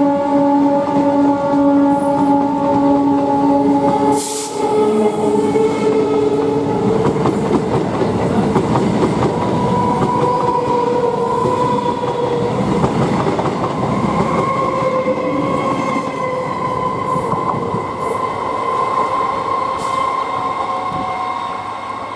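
EMU local train passing close by: wheels rumbling and clattering over rail joints, with a steady electric whine. A long held horn at the start cuts off about four seconds in, and the sound fades near the end.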